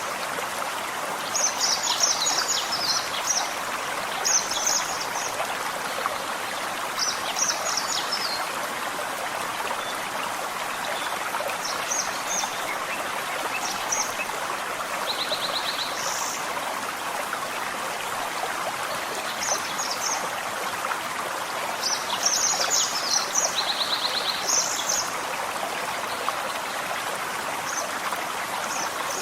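Forest stream flowing steadily, with small birds singing short high phrases over it every few seconds, including a fast trill of evenly repeated notes about halfway through and again later on.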